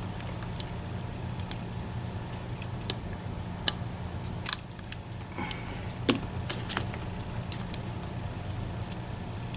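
Scattered light metallic clicks and ticks, about ten at uneven intervals, as a lock pick works the sliders of an EVVA ICS lock under tension. A steady low hum runs underneath.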